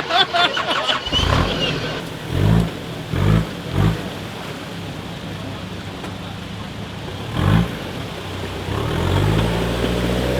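Off-road 4x4 competition vehicle's engine revving in about five short bursts, then running more steadily and building toward the end.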